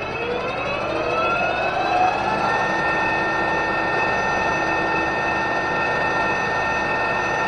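Metal lathe spinning up: its motor and gear whine rises in pitch for about two and a half seconds as the spindle comes up to speed, then runs at a steady pitch.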